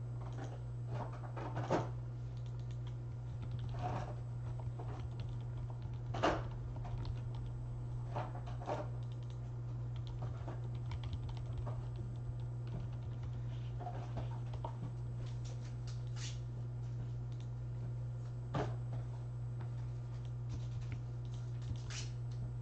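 Scattered computer keyboard and mouse clicks, a few seconds apart, over a steady low electrical hum.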